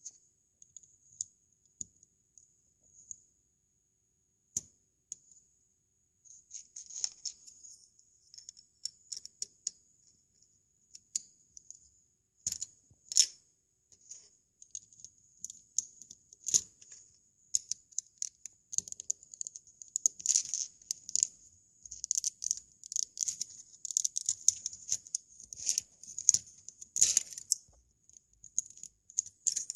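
Plastic Lego bricks being handled and pressed together: many small sharp clicks and rattles, sparse at first and coming thick and fast in the second half.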